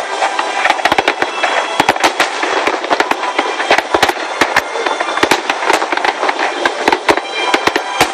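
Aerial fireworks show of Japanese shells from Nagaoka, bursting in a rapid, irregular run of sharp bangs, several a second, over a steady rush of noise.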